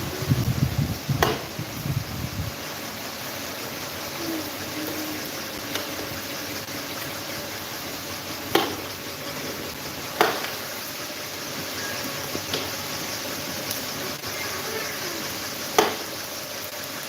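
Electric table fan running with a steady rushing hiss of air. A low rumble sounds over the first two seconds or so, and a few sharp clicks come at intervals.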